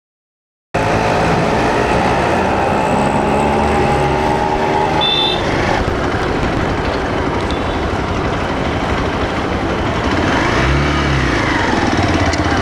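Single-cylinder Hero XPulse 200 motorcycle riding through busy city traffic, its engine running steadily under wind and road noise. There is a brief high tone about five seconds in, and a low tone swells and fades around ten seconds in.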